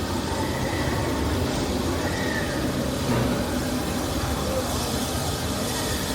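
Walt Disney World Railroad steam train running with a steady rumble, faint voices around it.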